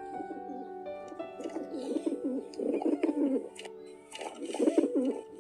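Pigeon cooing in two bouts of low coos, the first about a second and a half in and the second starting near the end, over soft background music with held notes.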